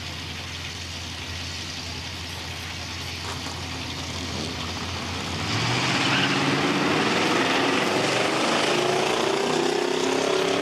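Buick Grand National's turbocharged V6 and a second car idling at the drag strip's starting line; about five and a half seconds in, they launch at full throttle, the sound getting louder and the engine pitch climbing steadily as they accelerate away.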